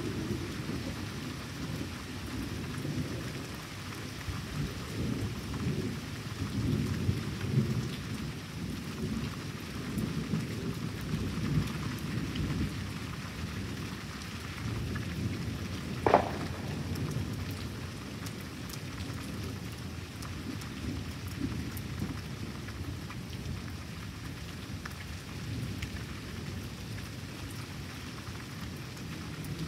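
Thunderstorm: steady rain falling, with low thunder rumbling on and off, heaviest in the first half. About sixteen seconds in there is a single sharp crack, the loudest moment.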